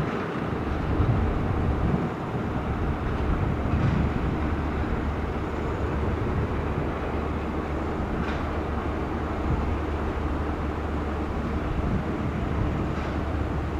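British Rail Class 33 diesel locomotive's Sulzer engine running as a steady low drone, with a faint click now and then.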